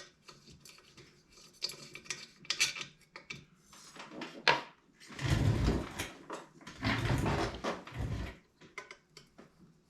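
Small metal parts and a hand tool clinking and scraping while a diesel heater is taken apart: scattered light clicks, then two longer, louder spells of rubbing and handling noise about halfway through.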